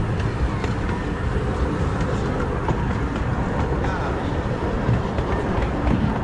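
Redwood Valley Railway's 15-inch-gauge miniature steam train running along the track: a steady rumble with faint clicks of the wheels on the rails.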